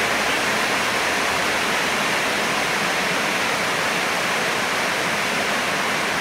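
Heavy rain falling, an even, unbroken hiss.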